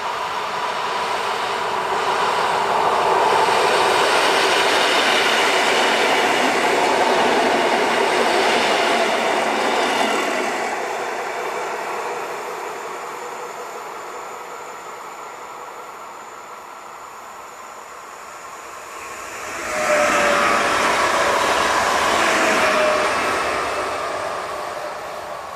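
Two electric multiple units pass on an electrified main line. First a modernised EN71 unit rolls past with loud wheel-on-rail noise and steady tones, ending abruptly about ten seconds in. After a quieter stretch, a PESA Elf EN76 unit passes close with a sudden rise in wheel noise and a tone rising slightly, then fades.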